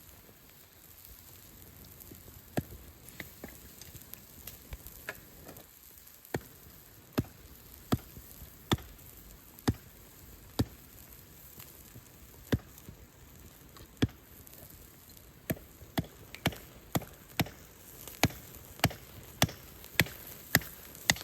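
Meat grilling over a wood fire: a faint steady sizzle with sharp, irregular crackling pops, coming faster near the end.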